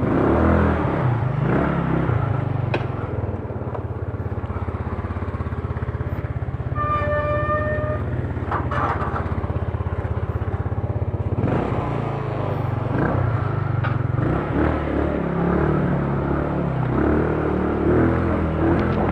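Yamaha Mio scooter's single-cylinder engine running steadily while riding, with traffic around. About seven seconds in, a single-pitch beep sounds for about a second.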